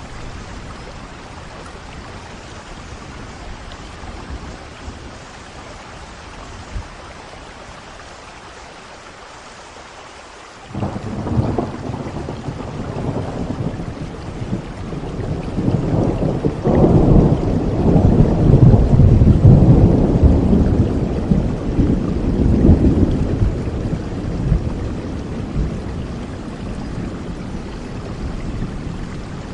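Steady rain with a long roll of thunder: the thunder breaks suddenly about a third of the way in, rumbles loudest through the middle and slowly dies away near the end.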